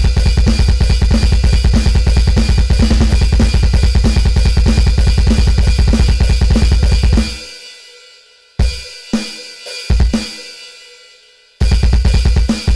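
Donner DED-200 electronic drum kit played in a fast, steady beat with a heavy kick. About seven seconds in the beat stops for a few scattered single hits, then the full beat comes back near the end.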